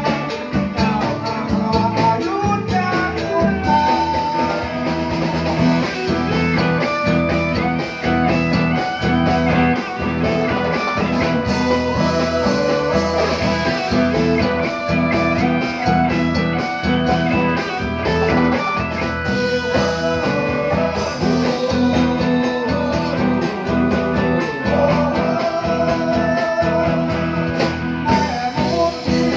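Live band music with plucked guitar prominent over a steady beat.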